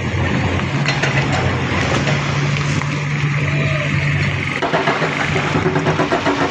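Heavy diesel engine running steadily, with a low hum; a faster rattling joins in about two-thirds of the way through.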